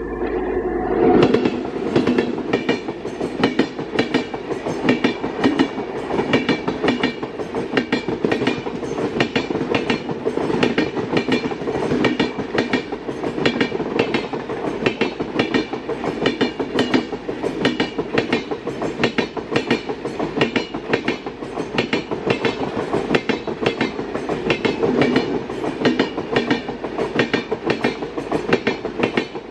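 An Indian express train passing at speed without stopping, its wheels clattering over the rail joints in a fast, even rhythm. The sound jumps up about a second in, then holds steady as coach after coach goes by.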